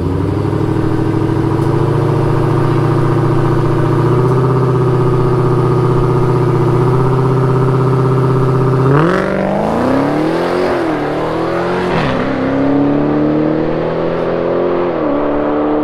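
Dodge Challenger's engine held at steady raised revs on the drag-strip start line, then launching about nine seconds in: the revs climb hard and drop back at each upshift, a second and a half apart, with another shift near the end.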